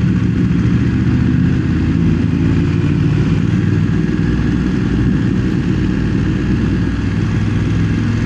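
BMW motorcycle engine running steadily at low town speed, heard from on the bike, with a low wind rumble.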